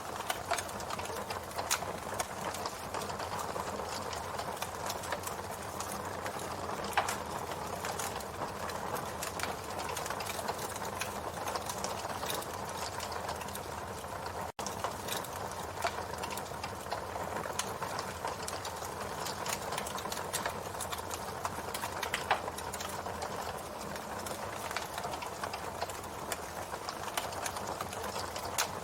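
Campfire burning with a dense, steady crackle of small pops and snaps, a few louder pops standing out. The sound cuts out for an instant about halfway through.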